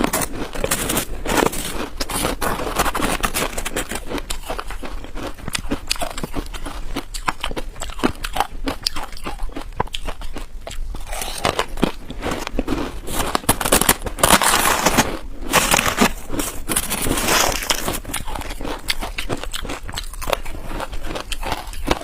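Freezer frost being bitten and chewed: a dense, crisp crunching and crackling of packed ice crystals.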